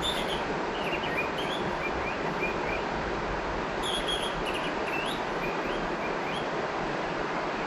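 River water rushing in a steady, even stream, with a bird giving short rising chirps several times over it.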